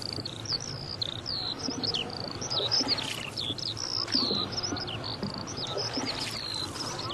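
Birds chirping: many short, quick whistled notes, often falling in pitch, overlapping without a break.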